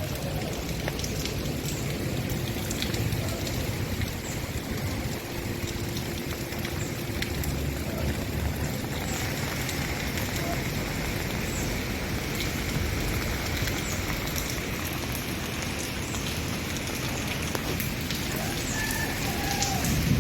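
A steady rushing noise like rain, with indistinct voices mixed in and a few short chirp-like tones near the end.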